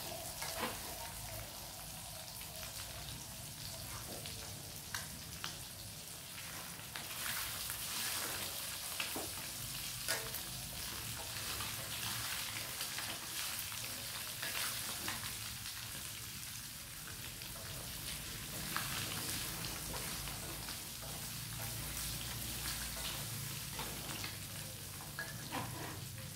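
Boiled quail eggs sizzling steadily in hot oil in a pan, with scattered clicks from stirring them.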